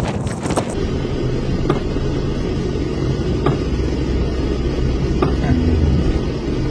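A motor vehicle running with a steady low rumble, with a few faint clicks.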